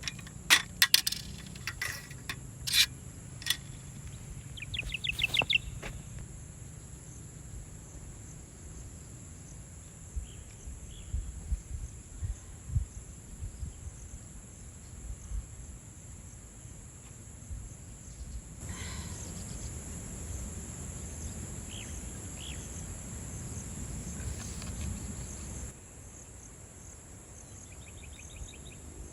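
Insects trilling, a steady high-pitched drone that never stops. Several sharp clicks or knocks come in the first few seconds, and there are faint, scattered bird chirps.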